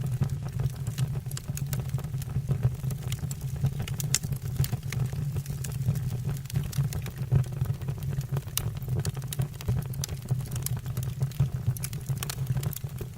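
Wood burning in a fireplace, logs crackling with many irregular sharp snaps over a steady low rumble.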